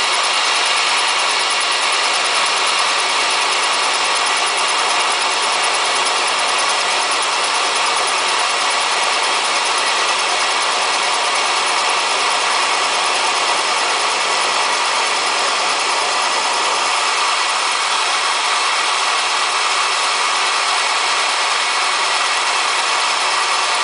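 Milling machine running with its insert-tipped cutter taking a cut across tough railway-rail steel: a steady, dense cutting noise with a faint hum of tones through it.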